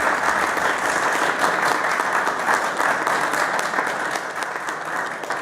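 Audience applauding in a council chamber, steady clapping from many hands that begins to thin out near the end.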